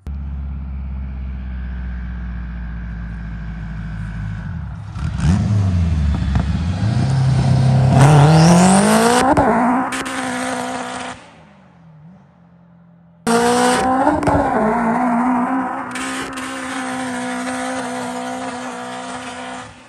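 Car engine idling with a low rumble, then revving hard as the car accelerates away, its pitch climbing steeply before cutting off abruptly. After a short gap, a second hard acceleration: the engine note rises, then holds steady as the car drives off.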